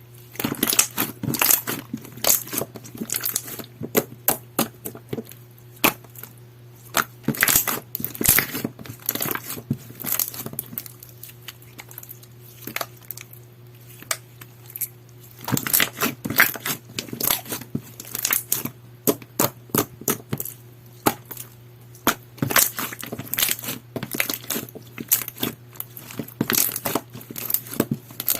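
Clear slime being squished and poked by hand, giving bursts of sharp wet clicks and crackles with a quieter lull about halfway through. A faint steady hum runs underneath.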